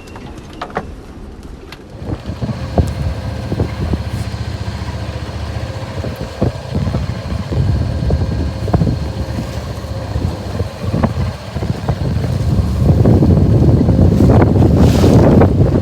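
Strong wind buffeting the microphone aboard a small sailing yacht, with scattered knocks and rattles from the boat; it picks up about two seconds in and gets louder again near the end.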